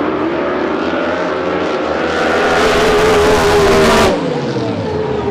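Racing drag boat engine running hard, swelling louder with a rushing hiss for about two seconds, then dropping away suddenly about four seconds in, its pitch falling afterwards.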